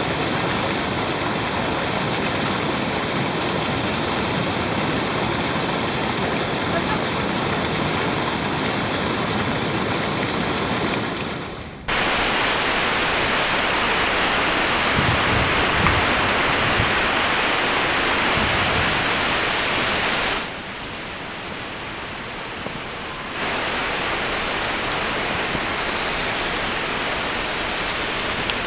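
Steady rush of small waterfalls pouring into a pool. About twelve seconds in it changes abruptly to a louder, brighter rush of falling water and bubbles heard underwater. After a short quieter stretch it gives way to another waterfall's steady splashing.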